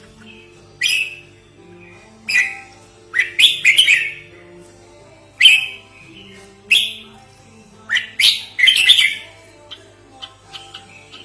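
Red-whiskered bulbul calling: short, loud chirping phrases repeated every second or two, some in quick pairs, played as a lure call for attracting bulbuls. A faint steady low hum runs underneath.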